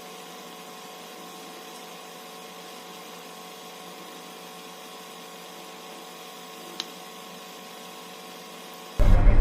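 A steady hum of several fixed tones over a hiss, with one short click near the seventh second. Near the end it cuts abruptly to a loud running car.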